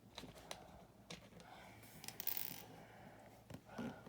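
Small plastic building-brick parts being picked up and handled: scattered faint clicks, with a brief rustle about two seconds in.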